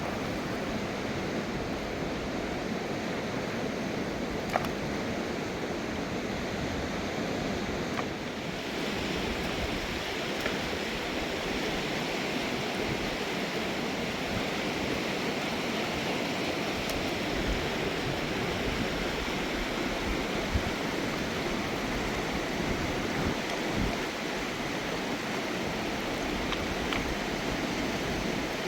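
Mountain river rushing over rocks, a steady, even roar of water that turns brighter and hissier about a third of the way in. A few faint clicks stand out over it.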